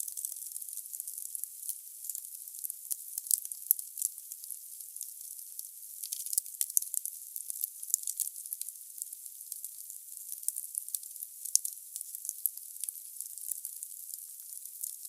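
Firewood burning in a fireplace: a dense, irregular run of sharp crackles and pops over a faint hiss, all high and thin with no low roar.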